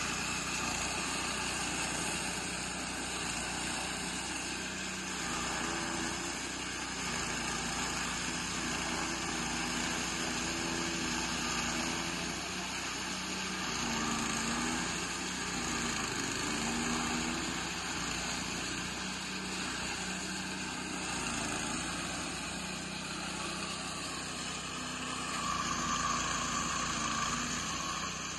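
Chaff cutter machine running steadily with a continuous mechanical drone.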